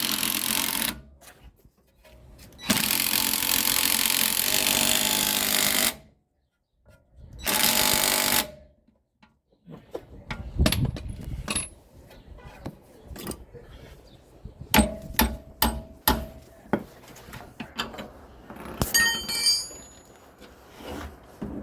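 Impact wrench with a 24 mm socket running on a shock absorber mounting bolt in three bursts, the longest about three seconds, followed by scattered metallic clicks and knocks of tools and parts.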